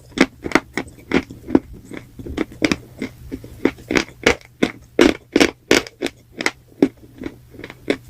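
Grey chalk and clay paste being crunched and chewed close to the microphone: a run of sharp crunches, about two to three a second.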